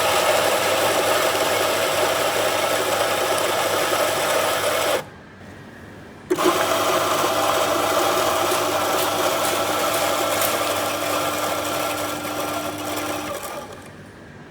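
Commercial espresso grinder's motor running empty to clear out the remaining coffee grounds. It stops suddenly about five seconds in, starts again with a click a second later, and runs down near the end.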